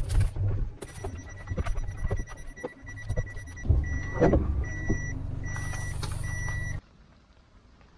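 Car engine running with a high reversing beeper sounding, first as a steady tone and then as a repeating beep about twice a second, with a few knocks. The engine and the beeper stop suddenly near the end.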